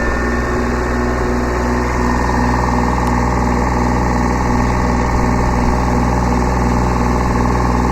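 Kubota B7100 subcompact tractor's three-cylinder diesel engine running steadily at working speed while its loader and backhoe pull up tree roots. A higher steady whine joins about two seconds in and holds.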